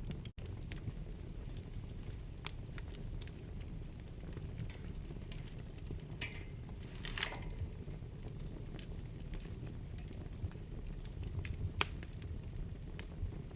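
Wood fire burning in a fireplace: a steady low rumble of flames with scattered sharp crackles and pops, and two short hisses about six and seven seconds in. The sound cuts out for an instant just after the start.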